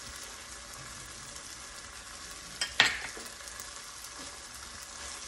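Steady sizzling of onions, capsicum and sauce frying in a hot wok, with one short, loud burst about three seconds in.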